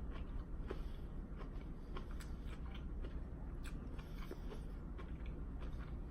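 Close-up biting and chewing of a chicken lettuce wrap, the crisp lettuce leaves and raw bean sprouts crunching in short, irregular crackles.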